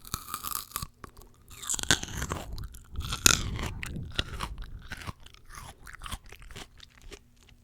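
Close-miked crunchy bites into fresh fruit, loudest right at the start, near two seconds in and just after three seconds, then steady chewing with many small crunches.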